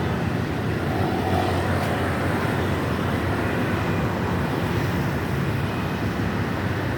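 A vehicle's engine running steadily, mixed with an even hiss of road and wind noise.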